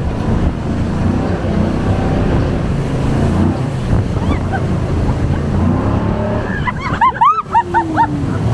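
Jet boat running at speed, a steady rumble of engine and rushing water with wind buffeting the microphone. About seven seconds in comes a quick run of short, high rising-and-falling cries.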